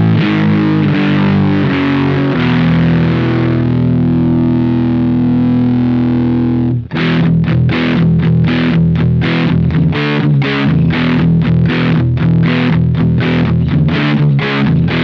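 Electric guitar played through a Witchcraft Velouria distortion/preamp pedal, heavily distorted. Quick picked chords give way to a chord left ringing for a few seconds, then, after a brief break about seven seconds in, a fast picked riff.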